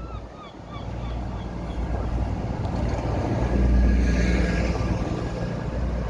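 A motor vehicle passing close by, its engine and tyre rumble building to loudest about four seconds in, then easing. At the start a bird gives a quick run of short chirping calls.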